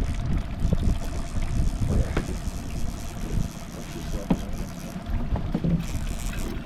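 Wind buffeting the microphone on an open boat, over the steady hum of the boat's motor, with a few short knocks.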